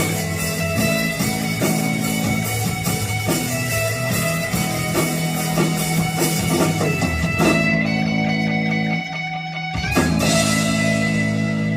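Instrumental passage of a song, guitar over drums, with no singing. The sound thins out about eight seconds in, and a single sharp hit lands about ten seconds in.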